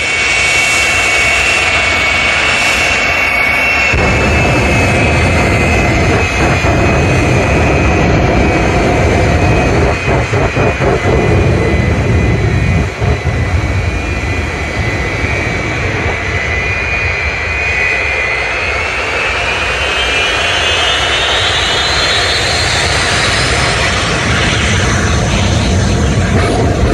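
Loud jet aircraft engine running in flight, a steady roar with a high turbine whine that sags slightly and then climbs steeply in pitch about two-thirds of the way through.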